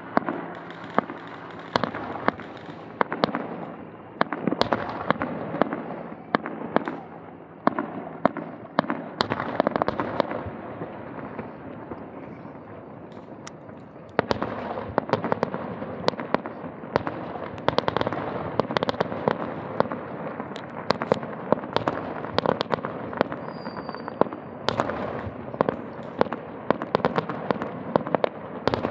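Aerial fireworks display: a continuous series of shell bursts and crackling bangs, thinning out for a few seconds in the middle, then coming thick and fast from about halfway on.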